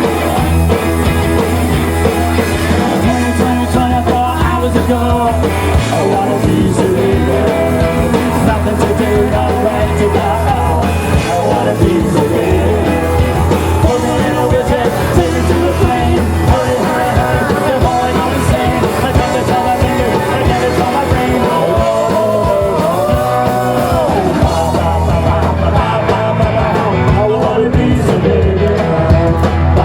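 Live rock band playing a fast punk-rock cover song, with a steady, driving bass and a sung lead vocal over the full band.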